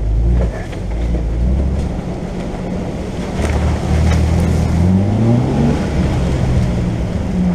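Jeep Wrangler engine running at low revs while crawling along a dirt trail, rising in pitch as it speeds up about five seconds in, with a couple of short knocks midway.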